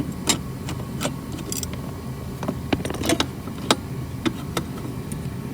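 Scattered sharp metallic clicks and taps from a hand screwdriver and loose screws as the screws holding a heater core box are taken out, over a steady low hum.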